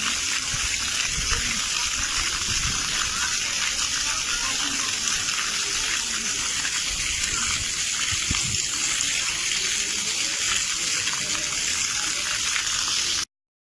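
Steady rush of water, an even hiss without surges, with faint voices underneath; it cuts off abruptly near the end.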